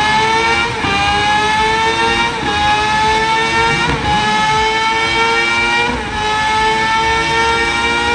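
Sportbike engine at full throttle on a dyno, its pitch climbing steadily with brief dips about four times as it shifts up through the gears on a power run.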